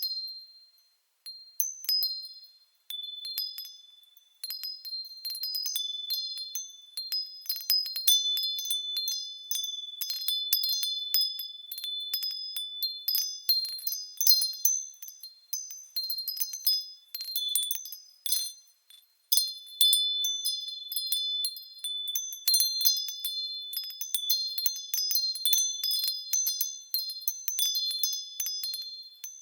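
Japanese furin wind chimes tinkling irregularly as the breeze sways them: clear high ringing notes struck over and over, often overlapping, with a couple of brief lulls.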